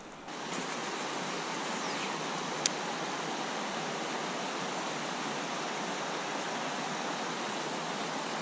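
River water rushing steadily, with one short sharp click a little under three seconds in.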